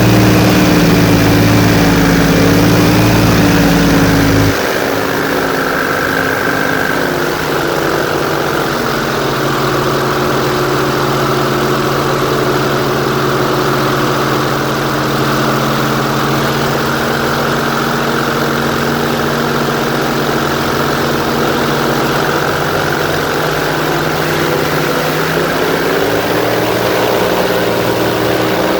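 Airboat engine and propeller running loudly and steadily. About four and a half seconds in it eases off, dropping to a lower steady drone.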